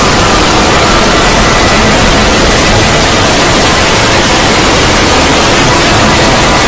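A 'void' sound effect: a loud, steady wall of rushing, static-like noise, with faint steady tones running through it.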